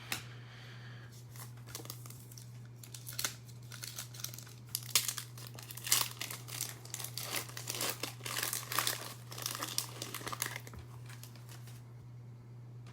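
Foil trading-card pack wrappers crinkling and rustling as they are handled and torn open, in irregular crackling bursts.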